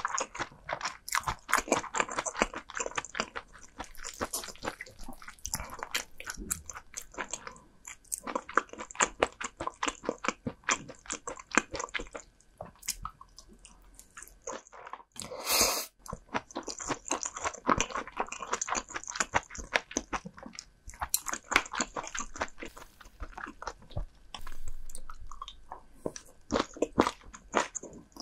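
Close-miked chewing and biting of food, with many quick, crisp crunches coming irregularly. About halfway through there is a brief, louder rush of noise.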